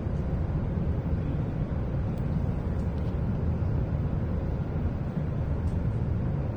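Cabin noise of a W7 series shinkansen car under way: a steady low rumble, with a few faint clicks.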